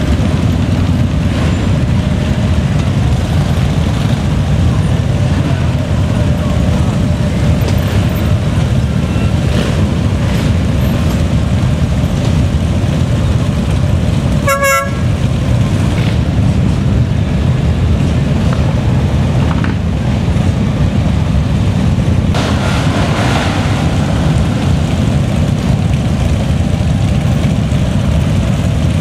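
Many motorcycle engines rumbling steadily in a passing rally parade, with one short horn toot about halfway through.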